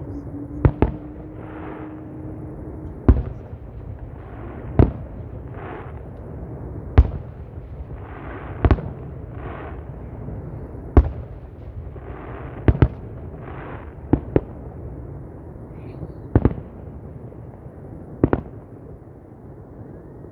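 Fireworks going off: sharp bangs, about one every one to two seconds, several in quick pairs, with short hissing crackles between them.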